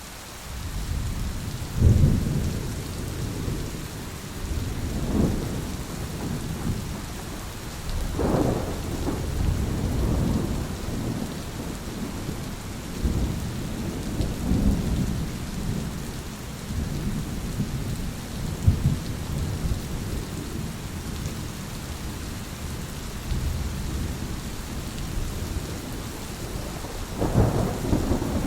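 Thunderstorm: steady rain hissing throughout, with rolling thunder rumbling for most of the time, loudest just before 2 s, around 8 s and again near the end.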